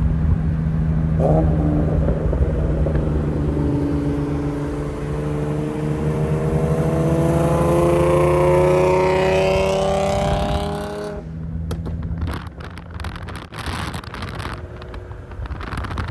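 Loud-exhausted VQ-series 3.7-litre V6 accelerating hard, its pitch rising steadily for several seconds; about eleven seconds in the throttle closes and the exhaust crackles and pops on the overrun.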